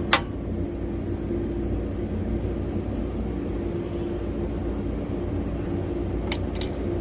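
A steady machine hum with a low rumble, broken by sharp clicks right at the start and twice about six seconds in.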